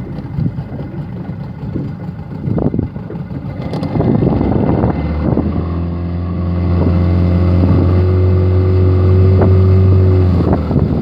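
Nissan NS9.9B2 9.9 hp two-stroke outboard motor running, mixed with wind and water noise. About five seconds in, a steady engine tone rises louder and holds, then falls back near the end.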